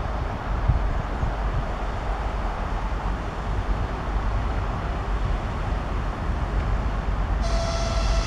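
Train running with a steady low rumble, then a short, high-pitched horn blast sounding near the end.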